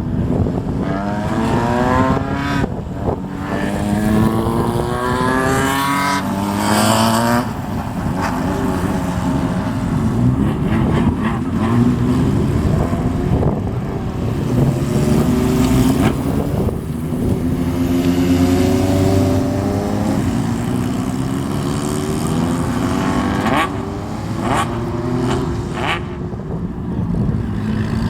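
Motorcycles accelerating away one after another, each engine revving up and shifting with a rising pitch, several bikes overlapping.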